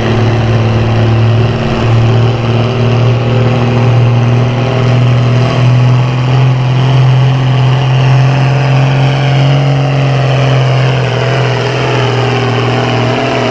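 A 10,000 lb farm-class pulling tractor's turbocharged diesel engine running hard at high revs under load. Its pitch holds steady and then sags slightly in the second half as the engine pulls down.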